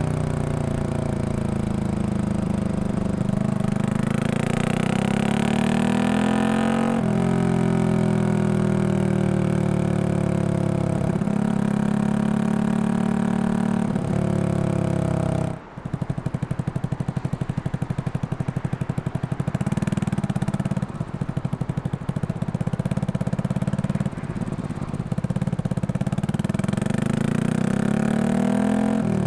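Exhaust of a Yamaha XSR155 single-cylinder engine, bored up to 183cc and fitted with a Norifumi full exhaust, on the move. It pulls up through the gears, its pitch climbing and dropping at each shift. About halfway through the throttle closes and the engine runs at low revs with a pulsing beat, then it picks up again toward the end.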